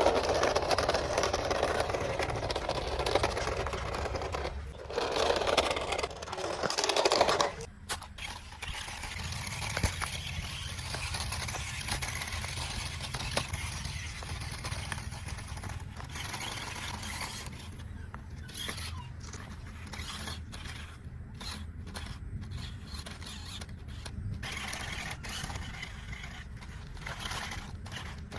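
Toy remote-control car running, its small electric motor and gears whirring and its tyres scraping over the ground. Loudest for the first seven or so seconds, then quieter and steadier.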